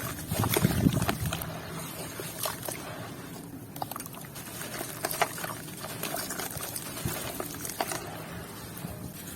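Wet sand and red dirt crumbling and mixing in water, trickling and sloshing, with a heavier burst in the first second and scattered sharp clicks of small stones throughout.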